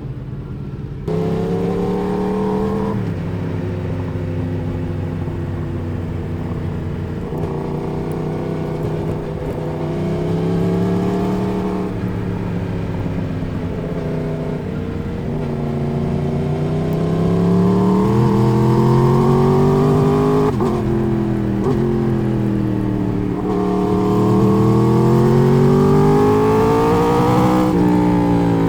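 Sport motorcycle's four-cylinder engine heard onboard while riding: the throttle opens about a second in, then the revs climb and drop repeatedly through several gear changes and rolls on and off the throttle.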